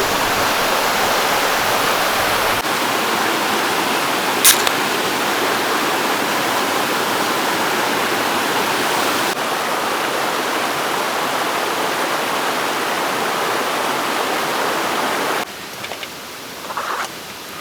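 Rushing water of a mountain gorge stream, a steady, loud hiss. One sharp click about four and a half seconds in. The rushing drops abruptly to a much quieter level near the end.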